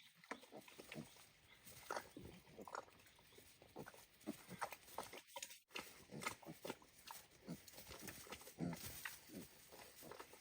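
Pigs grunting softly and irregularly, with scattered light knocks and clicks.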